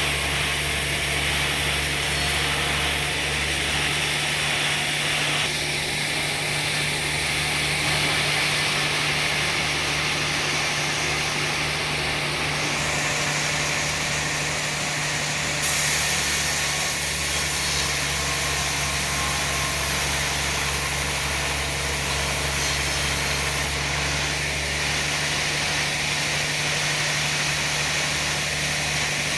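Sawmill running steadily, its engine humming under the noise of the saw, with the sound shifting a few times.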